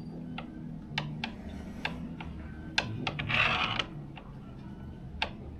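Domino tiles clicking against each other and the table as they are laid down, several separate sharp clicks, with a brief scraping rustle about three seconds in.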